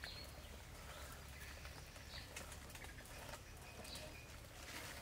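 Faint outdoor ambience with a few soft, scattered bird chirps.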